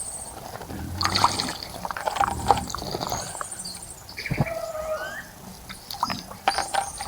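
Birds bathing in a bird bath, splashing in the shallow water several times, while birds call with high trills and a short rising whistle.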